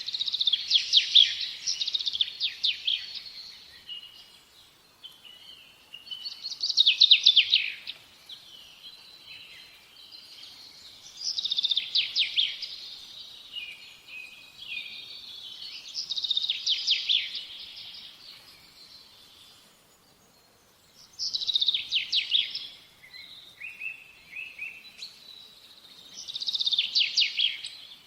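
Birdsong: a songbird singing short phrases of rapid, high trilled notes, six phrases about five seconds apart.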